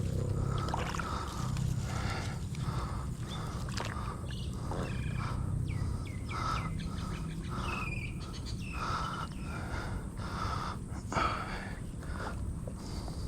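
Birds chirping over a steady low outdoor rumble, with short repeated calls throughout.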